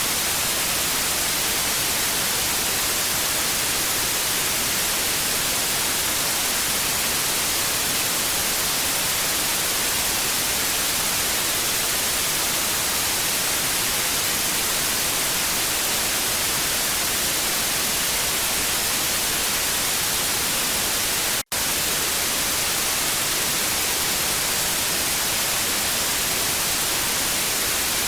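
TV static: a steady, even hiss with most of its energy in the high frequencies. It cuts out for a split second about three quarters of the way through, then carries on unchanged.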